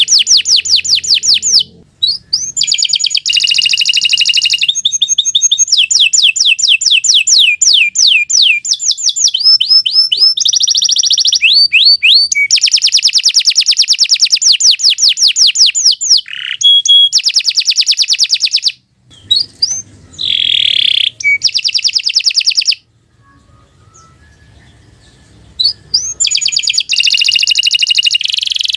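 Domestic canary singing a long, loud song of fast rolling trills and quick runs of repeated high notes. The song breaks up about two-thirds through and goes almost quiet for a few seconds, then starts again near the end.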